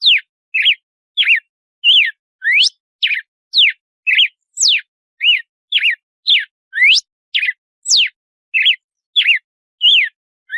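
Red-cowled cardinal (galo-de-campina) singing its 'açoite' song: a fast, even string of short, clear whistled notes, about two a second, some sliding up and some sliding down.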